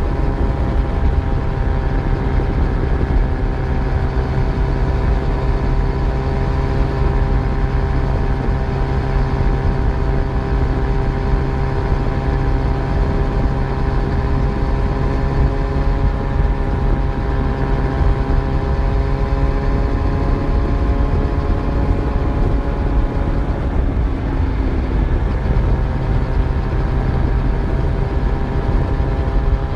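Yamaha FZ1's inline-four engine running steadily while riding, heard from on board along with low road and wind rumble. The engine note sags slightly and wavers briefly about twenty-four seconds in, then holds steady again.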